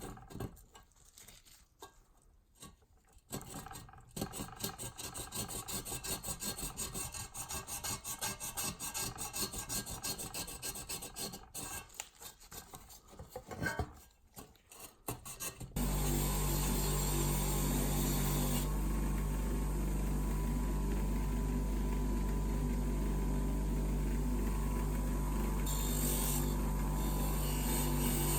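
Rapid rasping strokes of hand abrasive work on a metal part. About 16 seconds in, a power tool starts and runs with a steady motor hum.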